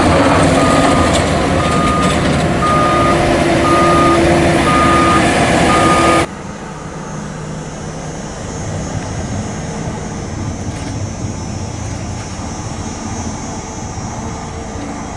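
Heavy truck engine running with a reversing alarm beeping about once a second. About six seconds in it cuts suddenly to a quieter, steady engine drone.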